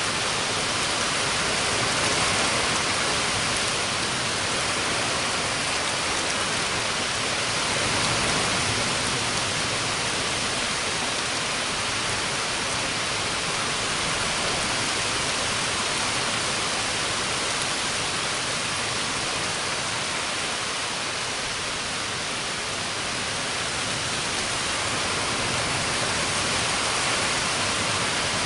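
Heavy rain falling steadily in a summer thunderstorm: an even, dense hiss with no thunder.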